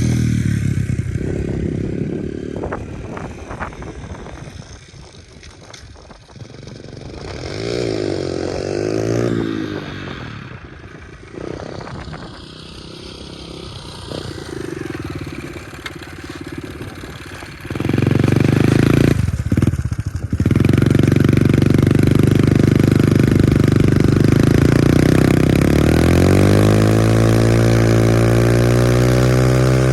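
Pit bike's small single-cylinder engine running and revving as it is ridden, its pitch rising and falling. It grows loud about two-thirds of the way in, then winds up with a climbing pitch near the end.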